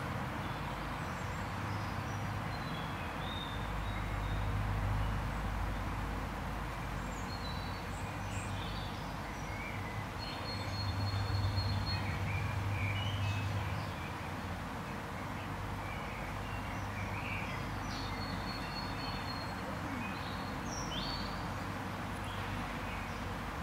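Small birds chirping and calling now and then, with a few short held whistles, over a steady low rumble that swells about four seconds in and again around eleven seconds in.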